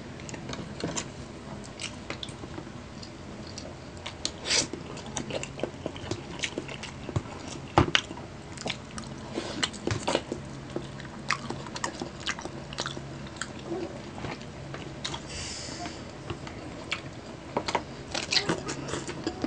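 Close-up eating sounds of two people: chewing and wet lip smacks on roast chicken and muffin, with frequent sharp clicks and smacks, the loudest a little before 8 seconds in. Now and then a plastic spoon and fingers tap against clear plastic takeout trays.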